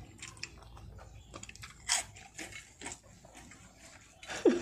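Close-up mouth sounds of people eating: chewing with scattered crisp crunches, as of fried kerupuk crackers being bitten, and one louder crunch about two seconds in.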